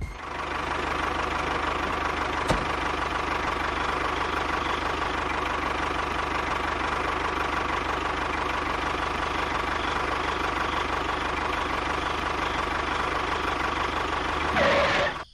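A small motor running steadily with a constant whine, a single click about two and a half seconds in, and a brief rise in pitch just before it cuts off.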